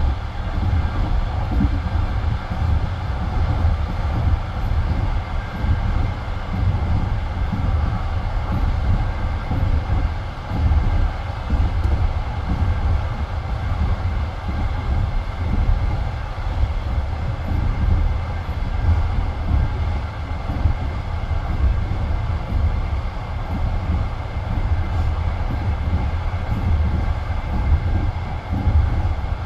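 A passenger train carriage running along the line: a steady, loud rumble of its wheels on the rails, with no pause.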